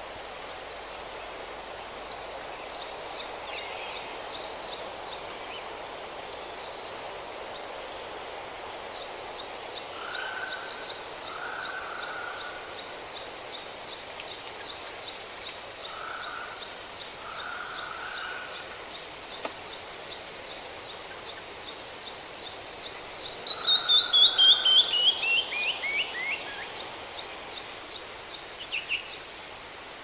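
Several songbirds singing over a steady background hiss: long runs of fast, high trills, some shorter lower phrases, and, a little after two-thirds of the way through, a loud series of notes falling step by step in pitch, the loudest part.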